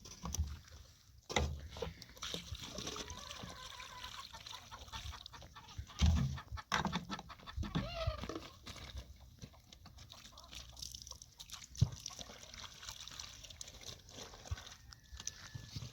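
Chickens clucking on and off, with a few sharp thumps and knocks; one thump near the end of the second third is the loudest.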